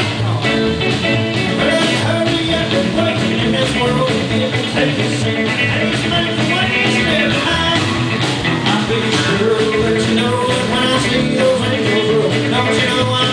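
Live country band playing an instrumental break with a steady beat and guitar.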